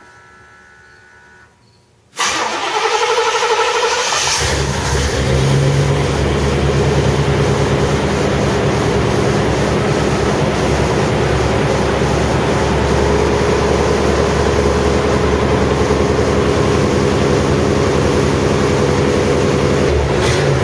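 Chevrolet Caprice's 305 V8 with a Flowmaster exhaust being cold-started: it cranks and fires about two seconds in, the sound rising as it catches, then from about four seconds in it runs loud and steady.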